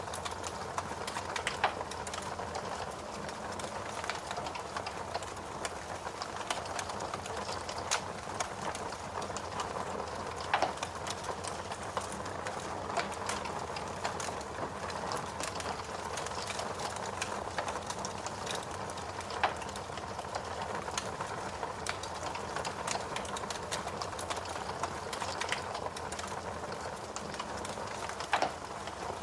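Steady rain mixed with a crackling wood fire in a fireplace, with a few louder pops from the burning logs every several seconds.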